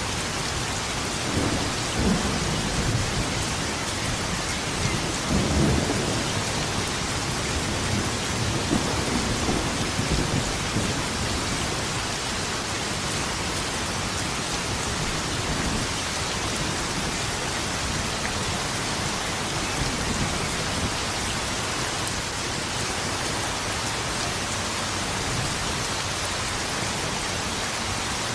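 Steady rain with low thunder rumbling several times over the first ten seconds or so, loudest about six seconds in, then easing off to rain alone.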